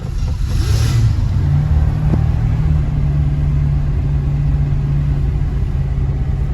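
1966 Ford Thunderbird's V8 running just after a cold start, settling into a steady, even idle.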